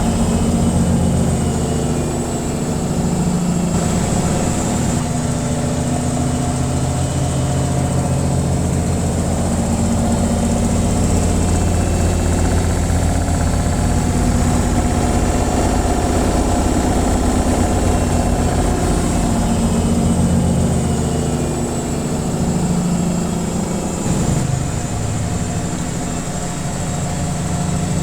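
Washing machine on its spin cycle: the motor and spinning drum give a steady low hum with a thin high whine over it.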